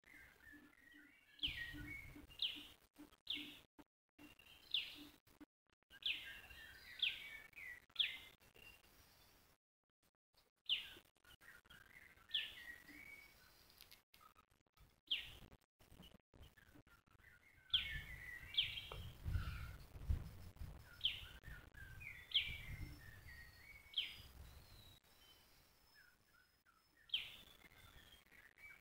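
Wild birds calling: short, sharp high chirps repeated every second or two, with a few pauses. A low rumble runs for several seconds in the second half.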